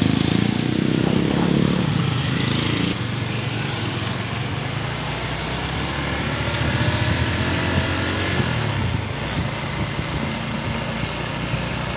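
Motorcycle engine running steadily under way, with road and traffic noise around it; the engine's pitch shifts a little about two thirds of the way through.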